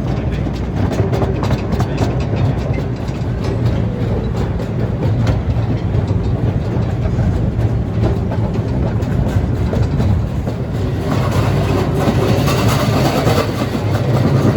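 A small ride-on park train rolling along its track, heard from aboard: a steady low rumble with the wheels clicking over the rail joints. The sound grows brighter and noisier about eleven seconds in.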